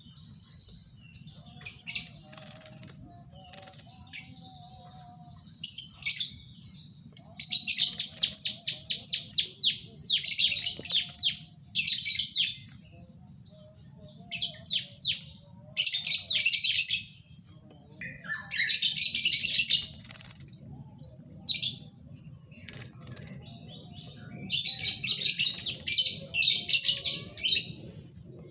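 Yellow-vented bulbul calling in repeated bursts of rapid chattering notes, each burst lasting a second or two, with short pauses between them.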